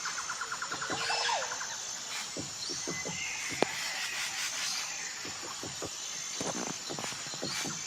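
Woodland birds with a woodpecker tapping: irregular soft knocks and one sharp tap about three and a half seconds in, among other bird calls. These include a rapid pulsed trill in the first two seconds and short gliding calls, over a thin high tone that comes and goes.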